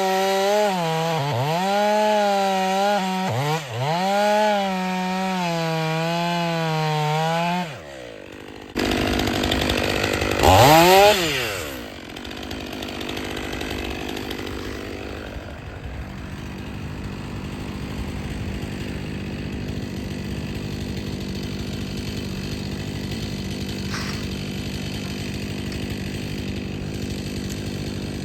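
Stihl 500i two-stroke chainsaw cutting firewood: the engine note dips and recovers repeatedly as it works through the wood for the first several seconds. After a brief burst it revs up in pitch, then drops to a quieter, steady running sound for the rest.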